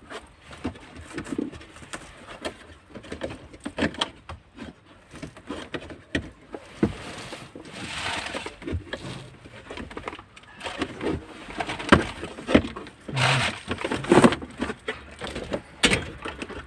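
Irregular clicks, knocks and short scraping sounds of hand work on a car's sliding sunroof mechanism, with a few louder rattles near the middle and toward the end.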